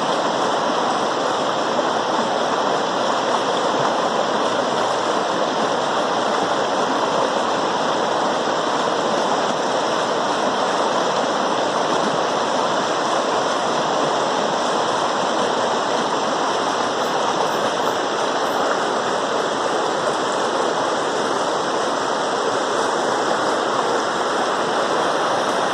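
Running water of a stream, rushing steadily without a break.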